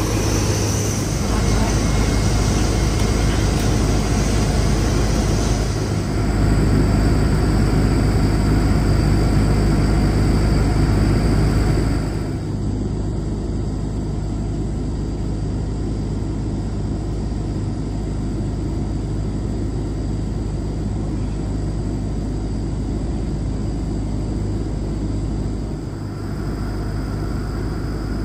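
Steady low rumble and hiss inside the cabin of a Boeing 787-10 airliner on the ground after landing, with faint voices in the background. It grows louder about six seconds in and drops back a few seconds before halfway.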